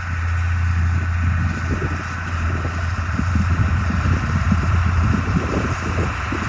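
Farm machine engine running steadily, a low drone with a busy clatter of machinery over it; it gets louder right at the start.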